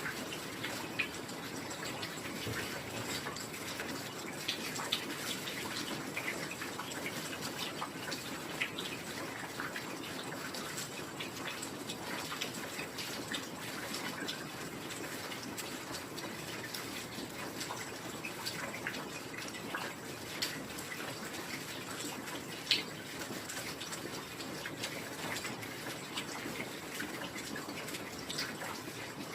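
Steady heavy rain, a dense hiss with many individual drops ticking through it and one sharper drop about three-quarters of the way in.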